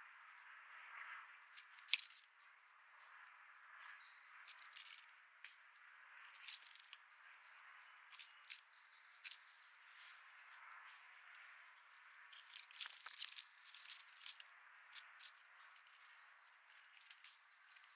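Small birds pecking and tapping at a seed feeder: sharp, irregular clicks of beaks and feet on the feeder, with a quick flurry of taps about two-thirds of the way through.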